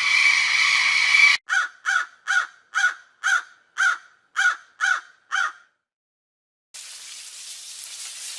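A steady, noisy sound cuts off abruptly about a second and a half in. Then a bird gives nine short, even calls, about two a second, and a faint steady hiss begins near the end.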